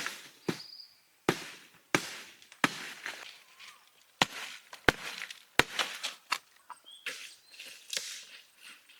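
Knife chopping food on a cutting board: about eight sharp, irregular chops with scraping and handling sounds between them. A bird chirps briefly twice.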